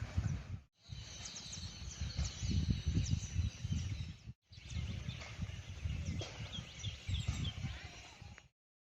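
Outdoor ambience of birds chirping over low gusty wind noise on the microphone. It breaks off twice for a moment and cuts to silence about half a second before the end.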